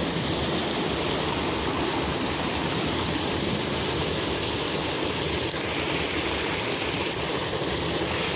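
Creek water rushing steadily, an even, unbroken sound of flowing water.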